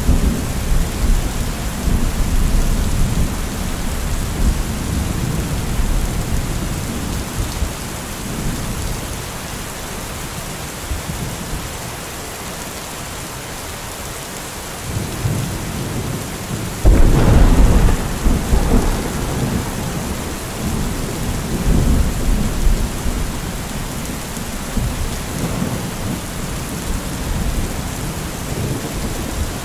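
Heavy rain falling steadily, with rolling thunder: a rumble dies away over the first several seconds, then a sudden loud thunderclap comes a little past the middle and rolls on as low rumbling.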